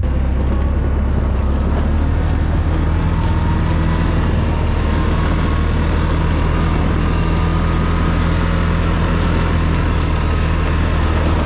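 ATV engine running at a steady speed, its low drone unchanging, under a steady rushing noise.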